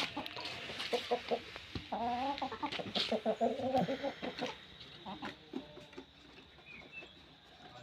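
Chickens clucking at feeding time, with a run of calls about two seconds in, quieter after about five seconds.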